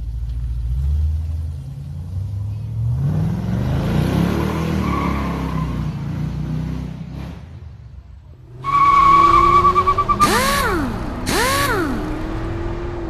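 LS V8 in an Oldsmobile Cutlass revving and accelerating away, its pitch climbing over several seconds before fading. About eight and a half seconds in, a louder electronic sound effect begins, with a wavering tone and two rising-and-falling swoops.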